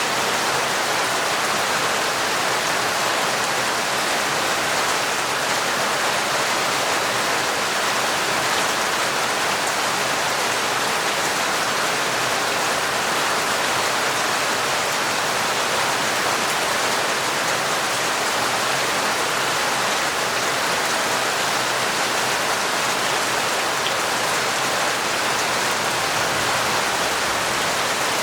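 Heavy, torrential rain falling steadily: an even, unbroken hiss with no single drops or thunder standing out.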